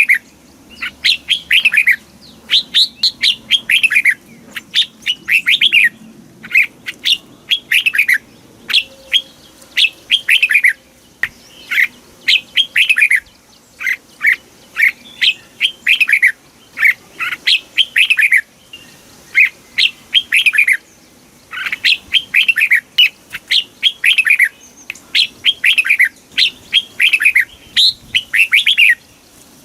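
Red-whiskered bulbul singing: quick phrases of short, falling whistled notes, repeated over and over with brief pauses between them.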